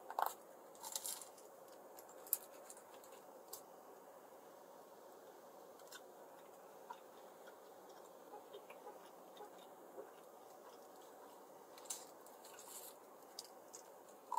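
Someone biting and chewing a Cuban sandwich on crusty, crispy Cuban bread: a few faint crunches and clicks, most in the first couple of seconds and again near the end, with a quiet stretch between.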